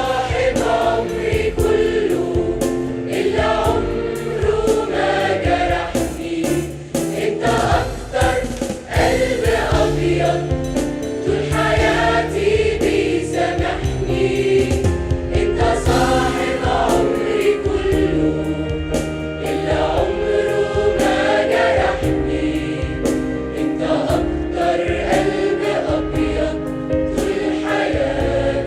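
Choir singing an Arabic Christian hymn with instrumental backing.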